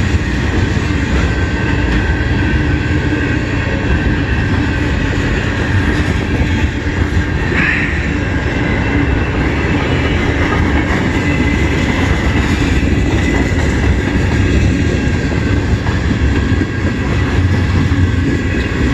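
CN freight train passing close by at speed: freight cars rolling past with a steady loud rumble and clatter of wheels on the rails. A brief high squeal sounds about eight seconds in.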